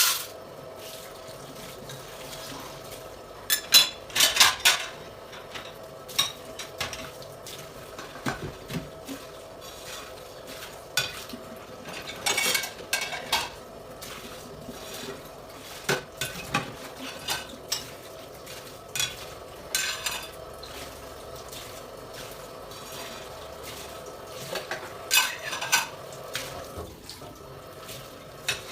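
Dishes and cutlery clinking and clattering as they are handled, in irregular clusters of sharp knocks with a few louder bursts.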